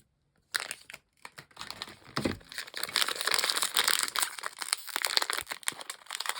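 Small plastic blind bag crinkling as it is handled and opened by hand. The crackling starts about half a second in and grows denser and louder about halfway through.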